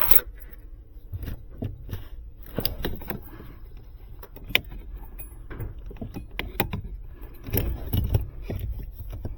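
Scattered light clicks and rattles of small parts being handled in a car's fuse area, over a low steady hum.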